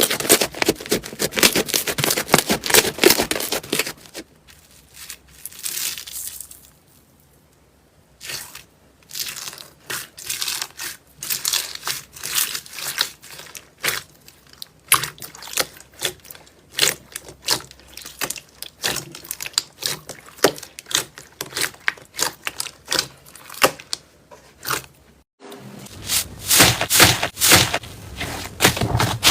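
Slime being squeezed and pressed by hand: a run of sticky crackling and popping clicks. There is a near-quiet pause about seven seconds in, and louder, denser crackling from about twenty-six seconds.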